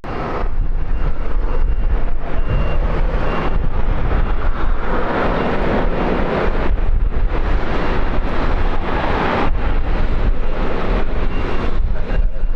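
Landing aircraft's engines roaring past, swelling about halfway through, with wind buffeting the microphone.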